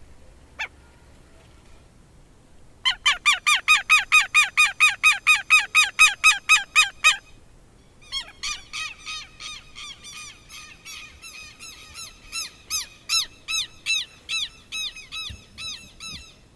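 Southern lapwing (quero-quero) calling. A single sharp note comes first, then a fast run of loud, harsh repeated notes, about four a second, for some four seconds. After a short pause a second, longer and slightly softer run follows.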